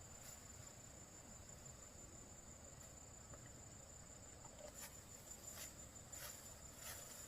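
Insects trilling steadily at a high pitch in a rural field. In the last few seconds come several faint, crisp rustles or strokes, about one every two-thirds of a second.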